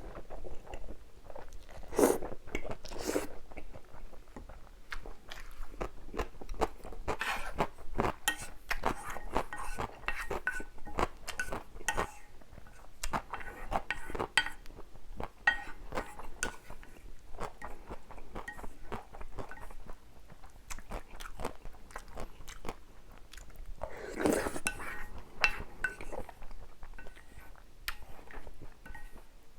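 Close-miked chewing of spicy stir-fried cup noodles, with wet mouth clicks throughout. A few louder, longer mouth sounds come about two and three seconds in and again about 24 seconds in.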